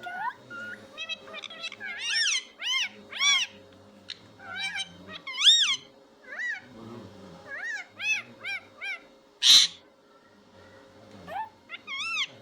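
Pet parrot calling: a string of short, high, whistle-like calls that each rise and fall in pitch, coming in irregular runs, with one short harsh screech about three-quarters of the way through.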